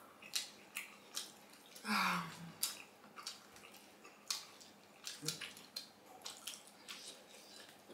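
Close-up wet eating sounds of people chewing momo dumplings: many small, sharp smacking and squelching clicks of the mouth, with a short voiced 'mm' about two seconds in.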